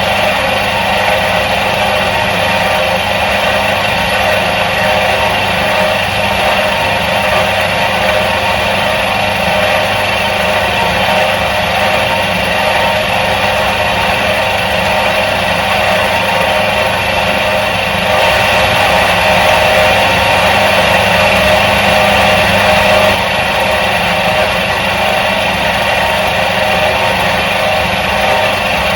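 Electric motor of a 1977 Soviet washing machine running with a steady hum, a little louder for a few seconds just past the middle.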